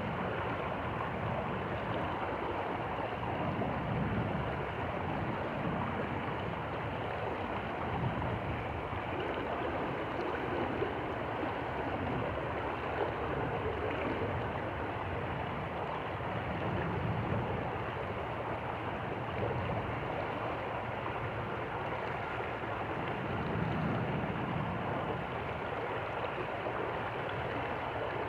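Stream water flowing steadily, an even rushing sound, with a low rumble that swells and fades every few seconds.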